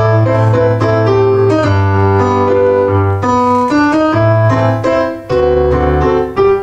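Piano playing the introduction to a song: sustained chords that change about once a second over a low bass line.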